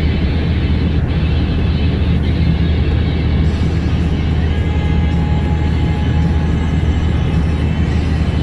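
Heavy truck driving: a steady low engine and road drone heard from inside the cab, with music playing over it.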